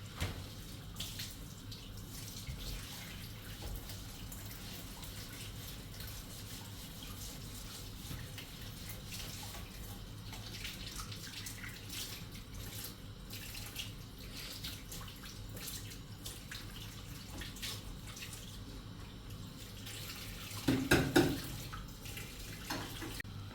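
Steady sound of falling water, with scattered drips and small knocks throughout, and a short louder sound near the end.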